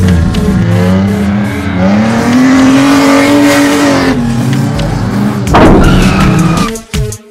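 Cartoon race-car engine sound effects revving, the pitch climbing about two seconds in, holding, and easing back down near four seconds. About five and a half seconds in a sudden loud hiss bursts out as one car's engine blows and steams.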